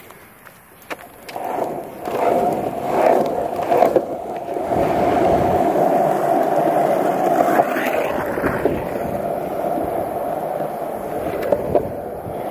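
Longboard wheels rolling: a steady rolling rumble with a hum that starts about a second in, after a few light clicks.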